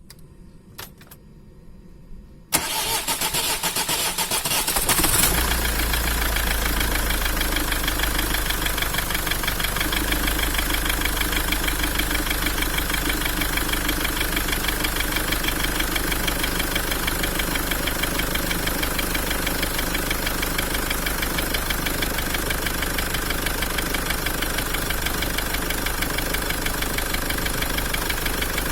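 Common-rail diesel engine with a freshly rebuilt Bosch injector, cranked by the starter about two and a half seconds in. It catches a couple of seconds later and settles into a steady idle.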